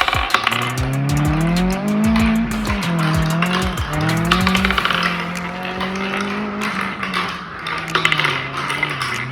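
Many marbles clicking and clacking as they roll down a marble-run track, over a wavering rolling hum that rises and falls in pitch.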